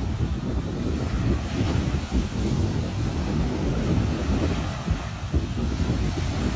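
Ocean waves washing onto a beach, with wind buffeting the microphone in a heavy, uneven low rumble.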